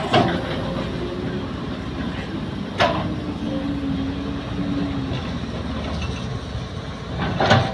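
Heavy machinery, an excavator working, running with a steady low diesel rumble, with three sharp metallic clanks: just after the start, about three seconds in, and near the end.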